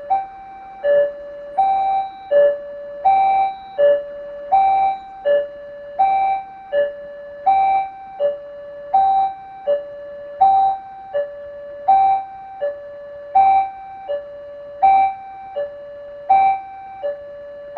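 Railway level-crossing warning bell sounding, an electronic two-tone chime alternating a lower and a higher note about every 0.7 s without pause, the signal that a train is approaching and the gates are closing.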